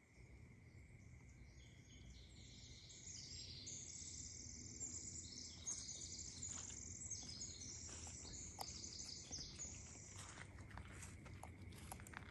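Faint woodland ambience: a bird sings a long, rapid run of high chirping notes for about eight seconds.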